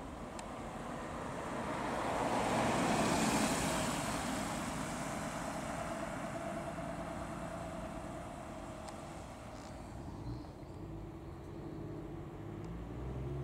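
Porsche 911's flat-six engine driving past at low speed. The sound swells to its loudest about three seconds in as the car goes by, then fades as it pulls away. Another car's low engine rumble builds near the end.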